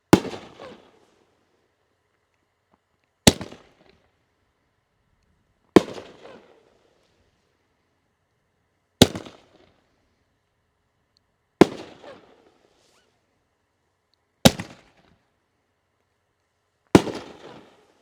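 A 3-inch nine-on-a-board rack of aerial firework shells going off in turn: seven sharp bangs about two and a half to three seconds apart, each trailing off over about a second.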